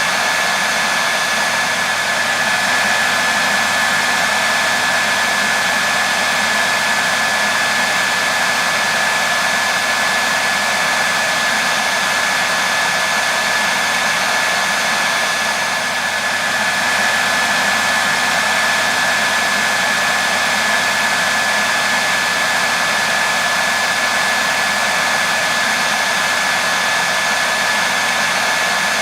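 Hair dryer running steadily: an even rushing of air with a steady high whine from the motor, dipping slightly for a moment about halfway through.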